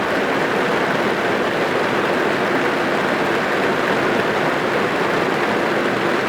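Heavy rain falling on a car's roof and body, heard from inside the car: a dense, steady patter with no let-up.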